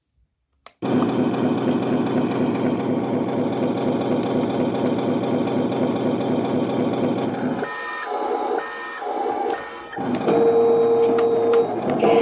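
Sound module of an RC Scania tractor-unit model playing a simulated truck engine, which starts suddenly about a second in and runs steadily. Near the end it gives way to three short runs of electronic tones, then a held tone, twice.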